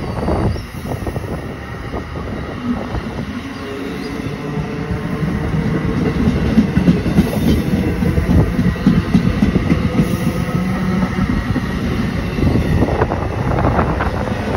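NJ Transit bilevel commuter coaches rolling past close by, with a continuous rumble and clatter of steel wheels on the rails that grows louder about a third of the way in. Near the end, the locomotive goes by with a burst of sharper clacking.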